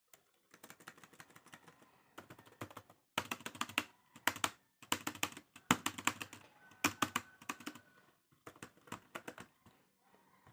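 Laptop keys being pressed rapidly in several bursts of typing clicks with short pauses between them. The owner says this keyboard's keys are not responding.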